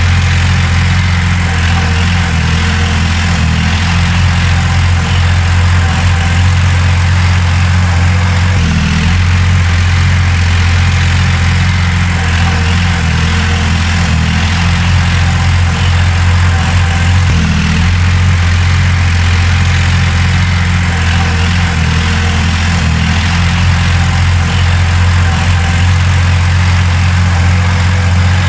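Heavy earthmoving machinery's diesel engine running steadily with a strong, even low hum.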